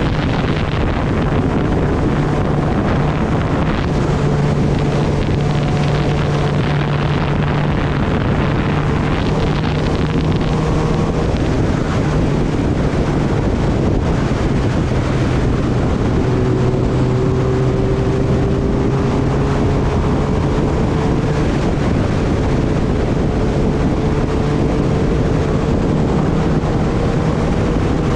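Kawasaki Ninja ZX-10R's inline-four engine running at a steady cruise under heavy wind rush on the microphone, its pitch creeping up slowly in the second half.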